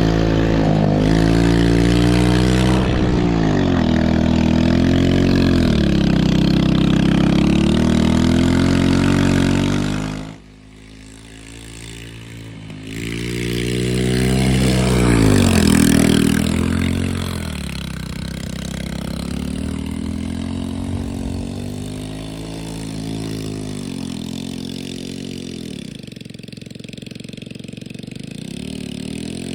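Small Chinese 110cc four-stroke ATV engine being revved hard and let off again and again as it slides around. About ten seconds in the sound drops abruptly, then it revs up again and settles into a lower, wavering drone.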